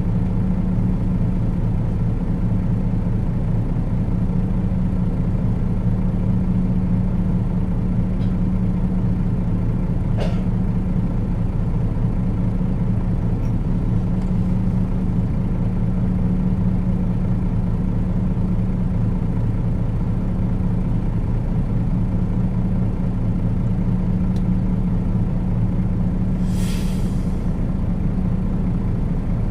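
Heard from inside the cabin, the diesel engine of a Nissan Diesel KL-UA452KAN city bus runs at a steady, unchanging hum. About 27 seconds in there is a short hiss of released air from the bus's air system.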